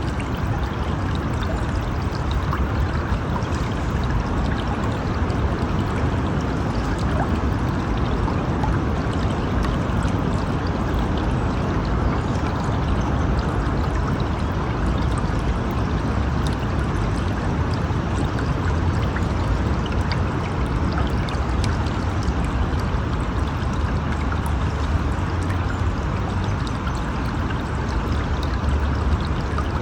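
A river or stream flowing steadily, a continuous rush of water with no breaks.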